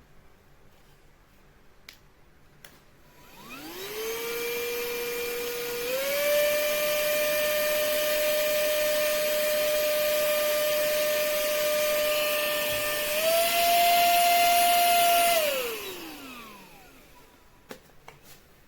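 Cordless handheld mini vacuum cleaner's motor switching on and spinning up to a steady whine, stepping up in pitch twice as it is moved through its three power settings, then switched off and winding down. Faint clicks come before and after.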